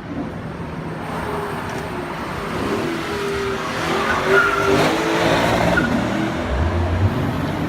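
Lexus GS F's 5.0-litre V8 being driven hard through a course, the engine pitch rising and falling with the throttle. Tyres squeal briefly at the loudest point, about four to five seconds in.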